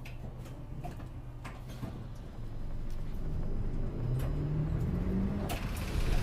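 Inside a Japanese route bus: the diesel engine runs at a low steady hum, then, about two and a half seconds in, it gets louder and its note climbs as the bus accelerates. Light clicks and rattles from the cabin come through.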